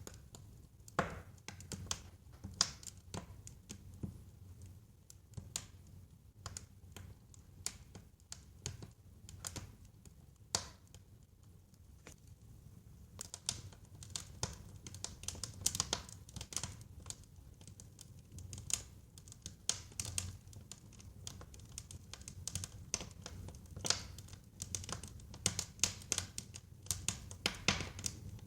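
Wood fire crackling and popping in a fireplace: irregular sharp crackles over a low steady rumble, growing busier about halfway through.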